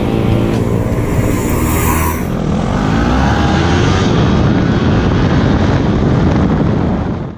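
Sport motorcycle engine accelerating hard, its revs climbing steeply for about the first couple of seconds of the run, then held high. Background music fades out in the first two seconds.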